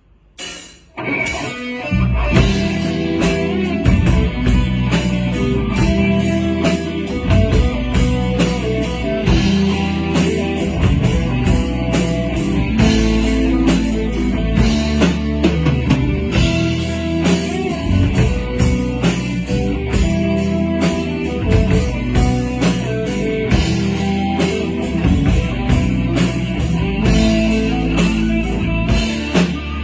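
Rock band starting a song about two seconds in and playing on: electric guitars, bass guitar and drum kit together.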